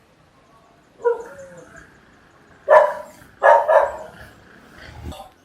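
A dog barking, a few short barks spread over the seconds, two of them close together.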